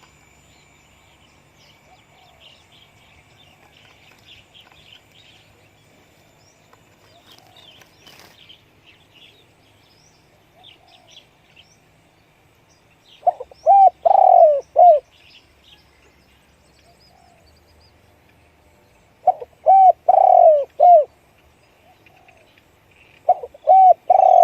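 Spotted dove cooing: three phrases of several short, low hooting notes each, roughly every five seconds, the first about halfway in. Faint chirps of small birds are heard between the phrases.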